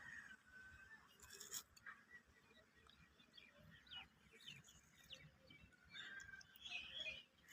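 Near quiet outdoor background with faint, scattered bird chirps and a few soft ticks.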